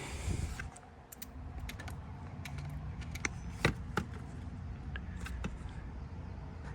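Scattered light clicks and taps, two sharper ones about halfway through, over a low steady hum.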